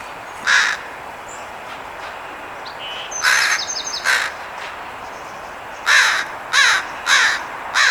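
Crows cawing about seven times in spaced calls, some in quick pairs, in alarm at a red-tailed hawk perched among them. A small bird twitters briefly about three seconds in.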